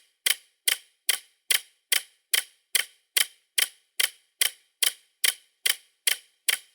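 Ticking clock sound effect: sharp, evenly spaced ticks, about two and a half a second, with dead silence between them.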